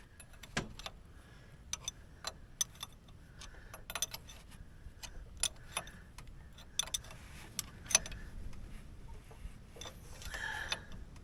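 Light metallic clicks and clinks at irregular intervals as small brass hydraulic fittings and hand tools are handled.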